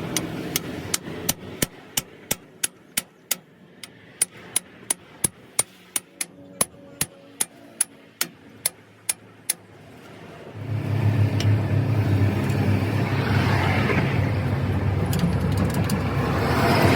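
A run of evenly spaced sharp metallic clicks, about three a second, stops after about nine seconds; then a loud, steady motor or engine starts up and runs with a low hum.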